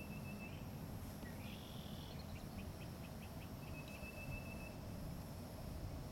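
Faint high bird calls over a low steady outdoor rumble: a thin held whistle, a quick run of about six short chirps around the middle, then another held whistle.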